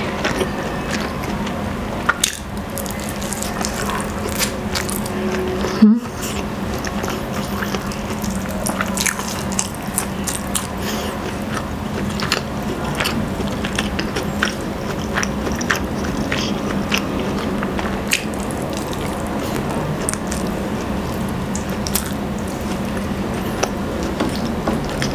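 Close-up wet chewing and biting of rotisserie chicken, with many small smacking clicks of lips and juicy meat.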